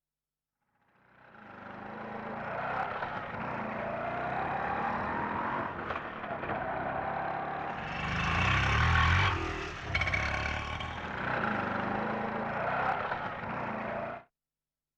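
Auto rickshaw running with a rattling, clattering engine whose pitch wavers up and down. It fades in about a second in, is loudest past the middle with a deep rumble, and cuts off suddenly near the end.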